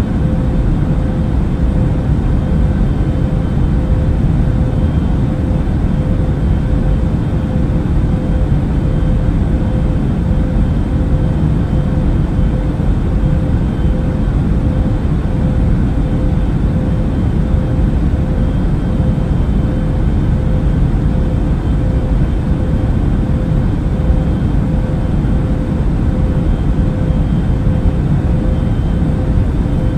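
Airliner cabin noise in flight: a steady deep drone of engines and rushing air, with a faint steady hum on top and no change throughout.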